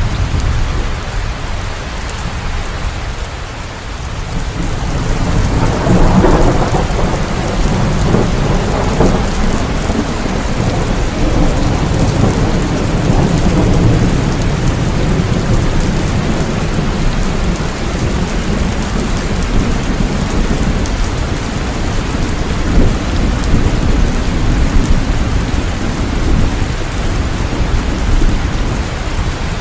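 Steady heavy rain with rolling thunder; the thunder swells about six seconds in and goes on rumbling under the rain.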